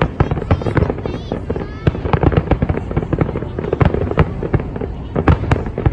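Fireworks display: a dense, irregular run of bangs and crackles over a continuous rumble.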